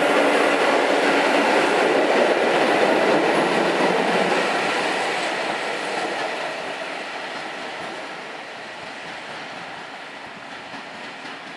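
PKP class EN57 electric multiple unit running past, its wheels clattering on the rails. The noise is loud at first and fades steadily from about four seconds in as the train draws away.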